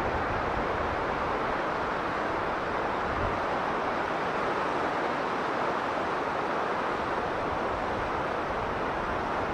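Strong blizzard wind blowing steadily, a dense even rush of noise with a low rumble beneath it.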